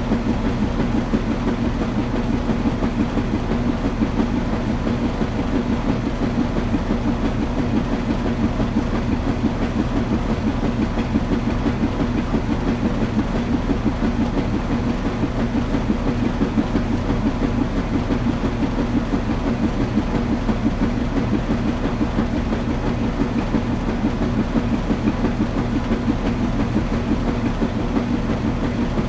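Washing machine running: a steady mechanical hum with a fast, even churning rattle that does not change.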